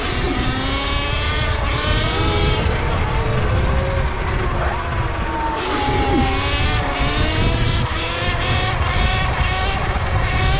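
Several Sur Ron electric dirt bikes' motors whining, their pitches overlapping and rising and falling with the throttle, over a steady low rumble.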